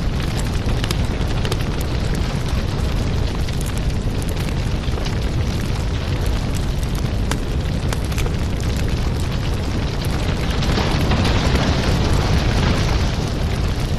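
Wood fire in a fireplace crackling over a steady low rumble, with frequent small pops, swelling louder for a few seconds near the end.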